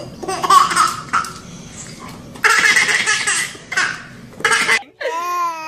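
A baby laughing in repeated bursts, in two long bouts. Near the end the sound cuts off abruptly and a high, drawn-out voice begins.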